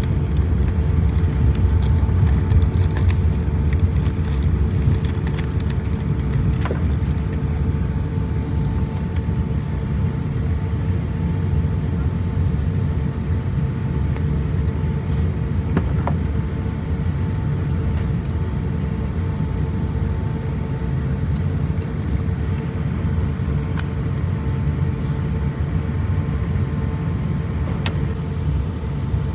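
Airliner cabin noise on board an Airbus A350-1000: a steady low rumble with a steady hum running through it, easing slightly after the first few seconds.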